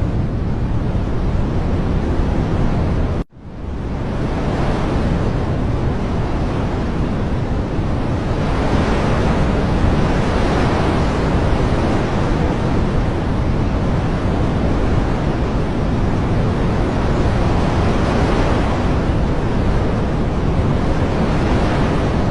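Steady rushing water ambience with slow, gentle swells. It cuts out abruptly about three seconds in and fades back up within a second.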